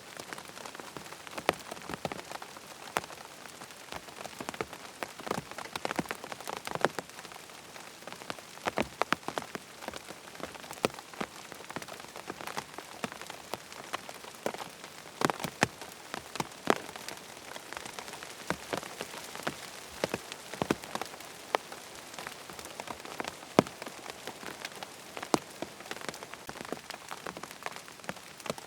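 Steady rain falling on a tent. Under an even hiss, many separate drops strike sharply and at irregular moments.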